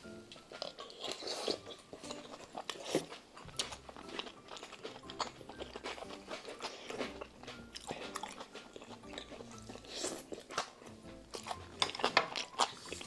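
Close-miked chewing and biting as budae bokkeum with udon noodles is eaten: irregular wet clicks, denser near the end, over soft background music.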